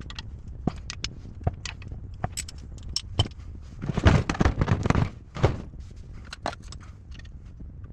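Irregular small knocks and clinks of parts and tools being handled, with a denser stretch of rattling about halfway through and a sharper knock just after it.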